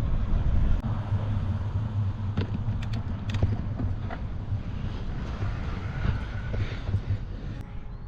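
Wind rushing over the microphone and tyre noise from a road bike being ridden, a steady rumble with a few faint clicks.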